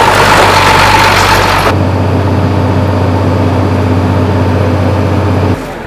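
Loud rushing noise that cuts off abruptly about two seconds in, giving way to a steady low engine drone that stops suddenly near the end.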